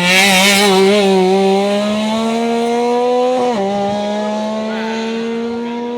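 A rally vehicle's engine pulling hard under acceleration, with a loud rush of noise in the first second. The pitch climbs steadily, drops sharply at a gear change about three and a half seconds in, then climbs again.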